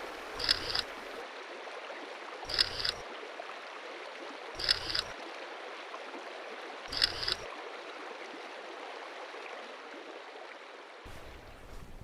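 Babbling brook running steadily, with a camera shutter click four times, about every two seconds. The water sound cuts off near the end.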